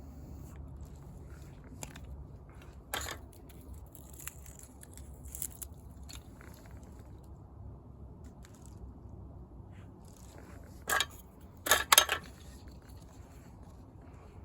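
A few scattered crunches and clicks, loudest as a short cluster of crunches about eleven to twelve seconds in, over a low steady hum.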